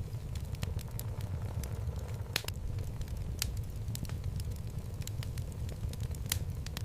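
Wood logs burning in a home fireplace: irregular sharp crackles and pops over a low steady rumble of the flames. The loudest pop comes about two and a half seconds in.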